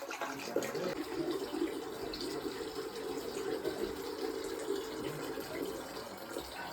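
Running water, a steady pouring and splashing that lasts several seconds.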